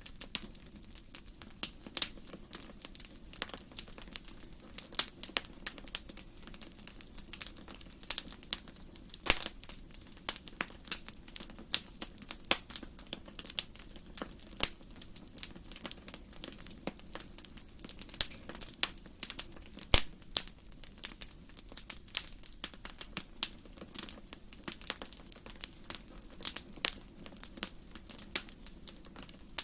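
Wood fire burning in a fireplace, crackling and popping at irregular moments over a low steady hiss.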